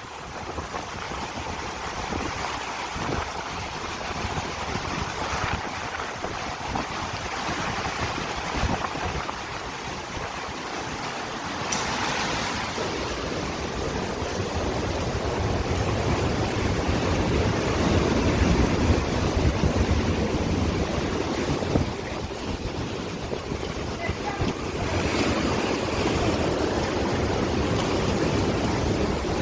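Rough sea surf washing in, with wind buffeting the microphone and a low rumble that grows stronger about halfway through.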